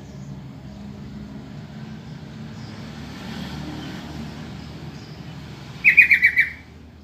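Yellow-vented bulbul (trucukan) calling: one quick burst of about five chattering notes near the end, over a steady low rumble.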